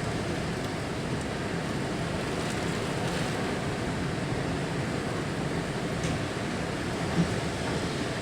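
Steady rushing noise of a rainstorm, with a brief thump about seven seconds in.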